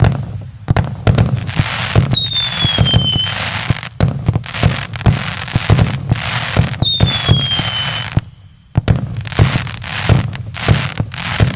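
Multi-shot fireworks cake (JF MC25, 100 shots, 1-inch calibre) firing in rapid succession: a dense stream of launch thumps and bursts over crackling. Two falling whistles sound, one about two seconds in and another near seven seconds, and there is a brief lull a little after eight seconds.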